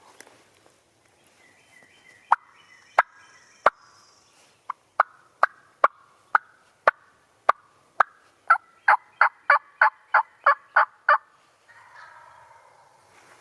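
Wild turkey calling: a series of sharp, short clucking notes, a few spaced out at first, then coming faster and ending in a quick run of about a dozen notes.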